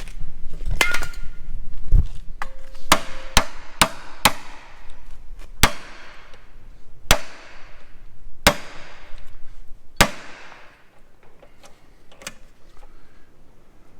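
Hammer blows on steel, driving a hand impact driver against stubborn Allen-head bolts on a corn-head gearbox plate. There are about a dozen sharp, ringing strikes, spaced a second or so apart, which thin out near the end.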